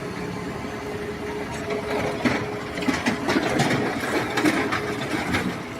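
Machinery running with a steady hum, joined about two seconds in by irregular clattering and knocking.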